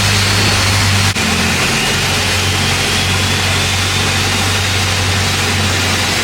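Long-tail boat's engine running steadily, a constant low drone under a steady hiss, with a brief dip in level about a second in.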